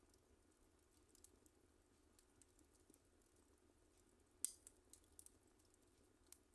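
Wood fire crackling faintly in a fireplace: sparse small pops and snaps, with the sharpest pop about four and a half seconds in.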